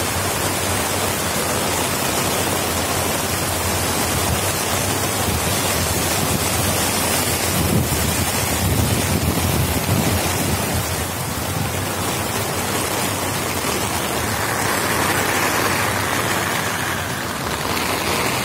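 Heavy rain and rushing floodwater: a steady, loud wash of noise.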